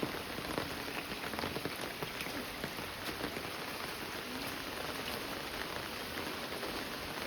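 Steady monsoon rain falling, a dense patter of many small drops on wet surfaces.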